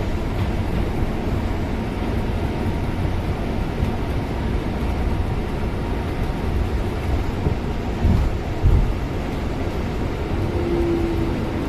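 Steady engine and road noise of a Scania city bus with a Bustech VST body, heard from inside the cabin, with a couple of low thumps about eight seconds in.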